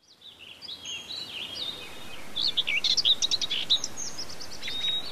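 Several small birds chirping and singing in quick, overlapping twittering notes over a faint steady hiss, fading in from silence over the first two seconds.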